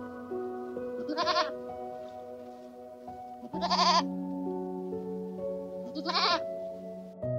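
Goat bleating three times, each a short quavering bleat about two and a half seconds apart, over soft, steady background music.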